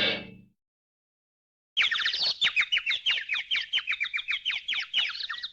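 The tail of a cartoon crash dies away at the start. From about two seconds in come cartoon "head bonk" birds chirping: a rapid run of short falling chirps, about six a second. This is the stock effect for a character seeing stars after a knock on the head.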